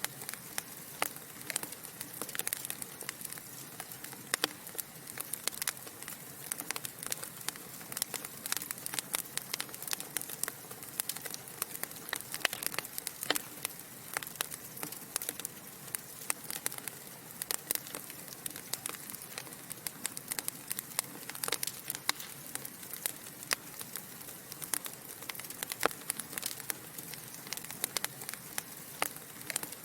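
Log fire in a fireplace crackling: frequent, irregular sharp pops and snaps over a soft steady hiss.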